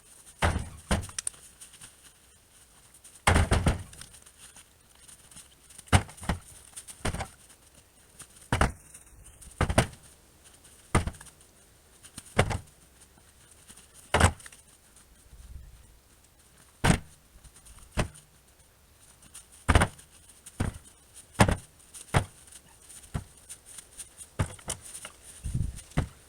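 Repeated sharp wooden knocks and thuds, about one every second with irregular gaps, as pieces of firewood strike against wood.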